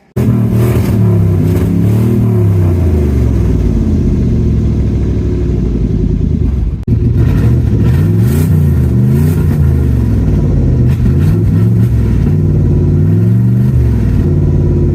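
Chevy Tahoe V8 running loud with its mufflers cut out, revved up and down several times, with a short break about seven seconds in. The exhaust flange just past the catalytic converters is falling apart, so it also leaks there.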